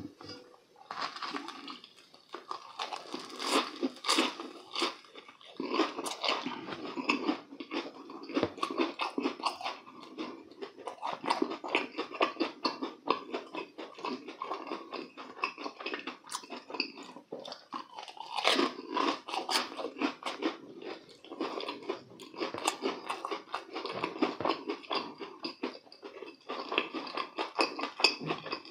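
Close-miked chewing of deep-fried breaded croquettes, the crisp crumb crust crunching and crackling with each bite and chew.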